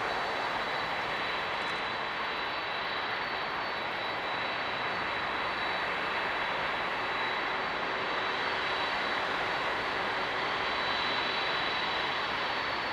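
Jet engines of a Boeing 747-400 airliner running steadily: an even rushing jet noise with a thin high whine held over it.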